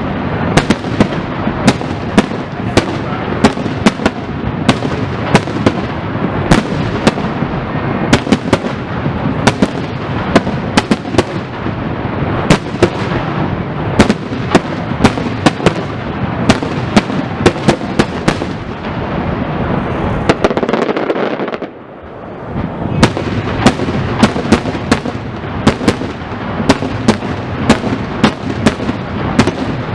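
Fireworks display: shells bursting in quick succession, several sharp bangs a second over a continuous rumble, with a brief lull about twenty seconds in.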